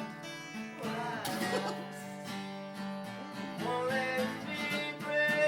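Acoustic guitar strummed in a song, with a voice singing briefly about a second in and again near the end.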